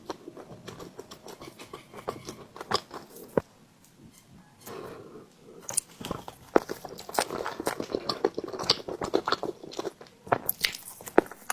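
Close-miked chewing of soft steamed bread: many quick wet mouth clicks and smacks. It thins out for a moment a few seconds in, then comes back denser for the second half.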